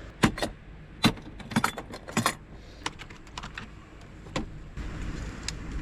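Light, irregular clicks and taps of a Joby flexible tripod's small plastic ball-joint leg segments being handled and worked while one loose joint is glued.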